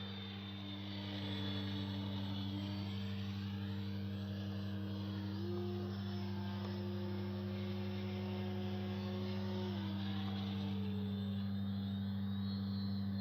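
Electric RC plane's brushless motor and propeller buzzing in flight. The pitch steps up about five seconds in and drops back near ten seconds as the throttle changes, with slow rising and falling sweeps as the plane passes. A steady low hum lies under it.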